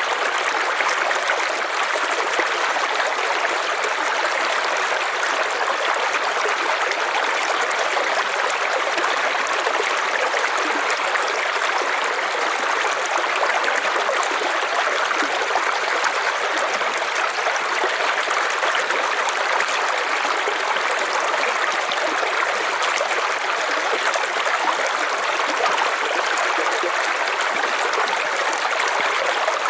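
River water flowing: a steady, unbroken rush of running water, mostly splashing hiss with little low rumble.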